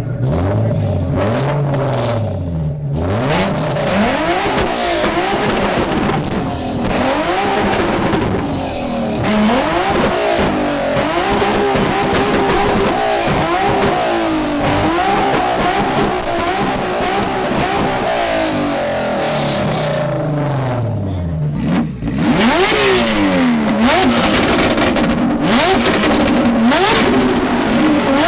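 Modified car engines revving again and again, the pitch climbing and falling with each rev. There is a short dip about 22 seconds in, and the revving is louder after it.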